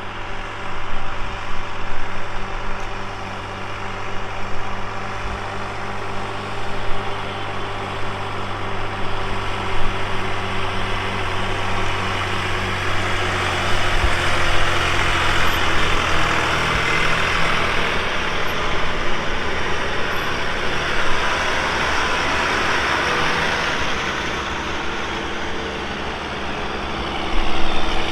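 Tractor diesel engines running as tractors drive past, a steady low engine hum with the noise swelling in the middle as they go by.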